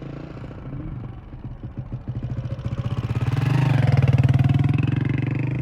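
A motor vehicle's engine running close by, its rapid firing pulses growing louder to a peak about four seconds in, then easing off a little.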